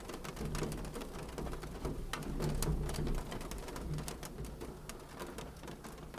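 Wood fire crackling in a fireplace: irregular sharp pops and snaps over a steady low rumble of the flames, busiest about two to three seconds in.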